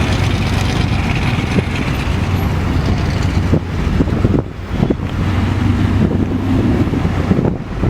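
Car engine running close by, a loud steady low drone with exhaust noise, dipping briefly a few times.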